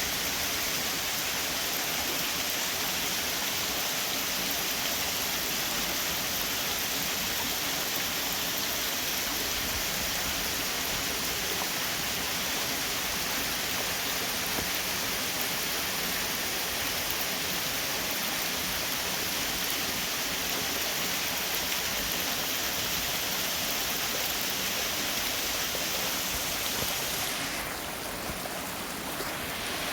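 Running water in a wadi, a steady rush, dipping slightly in level near the end.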